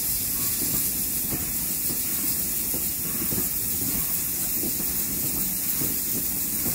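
Passenger carriages of a steam train rolling past, wheels rumbling with irregular small knocks, under a steady hiss.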